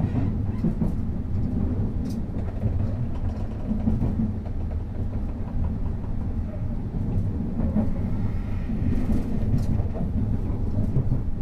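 Passenger train running at speed, heard from inside the carriage: a steady low rumble of wheels on the rails, with a few faint clicks.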